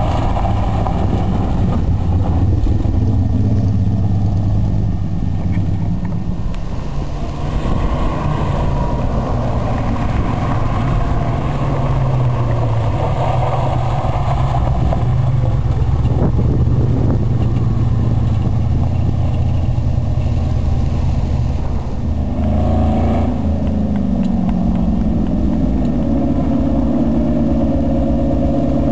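Old cars racing on a dirt track one after another: engines running hard and revving, their pitch rising and falling as each car accelerates through the corner. About three-quarters of the way through, a higher-pitched engine comes in over the deep engine note.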